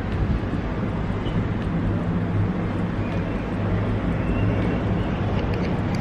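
Steady wind buffeting the camera's microphone, a continuous low rumble.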